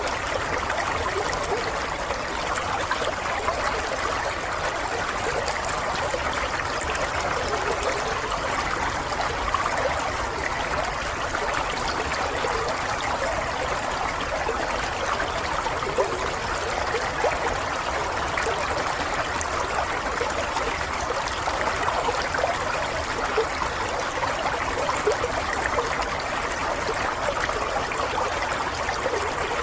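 Running water of a small stream, flowing steadily with fine, quick splashing detail.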